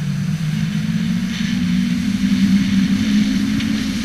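Jet ski engine running steadily, its pitch rising over the first couple of seconds and then holding.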